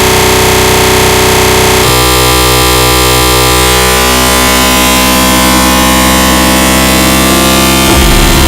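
Harsh noise music: loud, dense distorted electronic noise with held drone tones underneath, which shift abruptly about two seconds in.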